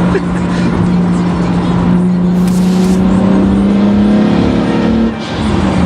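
Single-turbo BMW 335i's straight-six heard from inside the cabin, pulling under acceleration with its note rising steadily, then dropping about five seconds in as it shifts up. A brief hiss is heard about two and a half seconds in.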